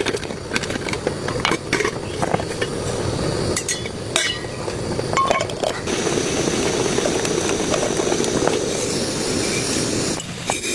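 Scattered light clinks and knocks, about a dozen at irregular intervals, over steady rain. The clinks come mostly in the first half.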